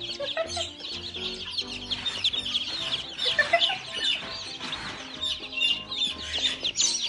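A crowd of young poultry peeping rapidly and continuously in high, short chirps, over light background music with a steady low beat.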